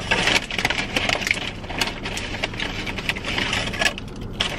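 Crunching of a mouthful of crisp homemade tortilla chips being chewed close to the microphone: a dense run of sharp crackles that thins out about four seconds in.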